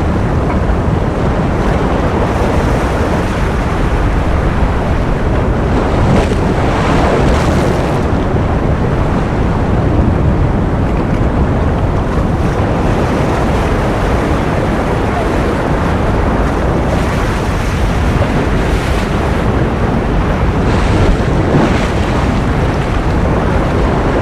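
Continuous ocean surf: a dense, steady hiss of breaking waves, with a brighter wash swelling up now and then.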